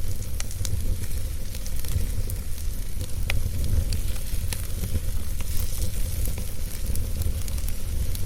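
Wood fire burning in a fireplace: a steady low rumble and hiss, with sharp crackles and pops at irregular moments.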